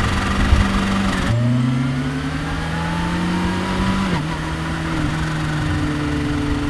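Kawasaki Ninja H2's supercharged inline-four engine pulling at low revs. Its pitch drops sharply just over a second in, climbs steadily for about three seconds, dips again about four seconds in, and then holds steady, as the bike shifts up through the gears.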